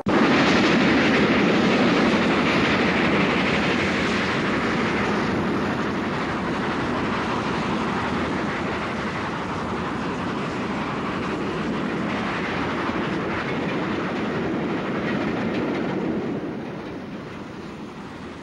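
A train running on the rails, starting suddenly at full loudness, easing off gradually and falling away further near the end.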